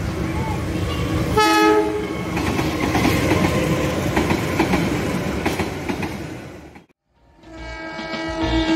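Diesel locomotive giving one short horn blast about a second and a half in, then passenger coaches rolling past with wheels clacking over the rail joints. The train sound fades out about seven seconds in and background music begins.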